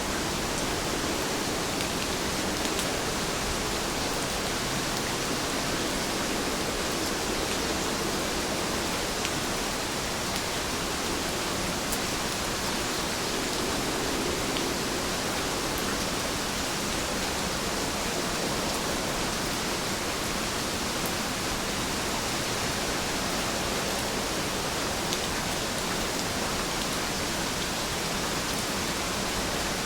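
Steady rain falling: an even, unbroken hiss with a few sharper drop ticks scattered through it.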